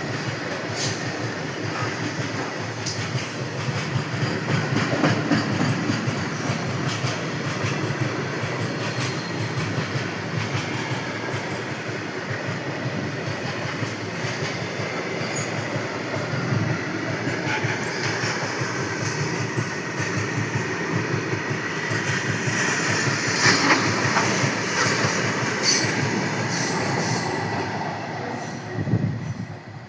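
A moving train, with a steady rumble of wheels on the rails and scattered sharp clicks and clatter. It grows louder a little over two-thirds of the way in, then falls away at the very end.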